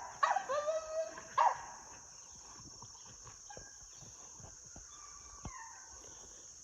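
A dog whining in a few high, wavering cries during the first second and a half, then only faint scattered clicks over a steady high insect drone.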